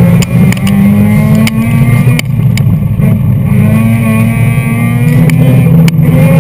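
Mazda RX-8's two-rotor Renesis rotary engine, heard from inside the cabin, revving hard under load. The revs rise and fall as the car is driven at the limit, with a few sharp clicks over it.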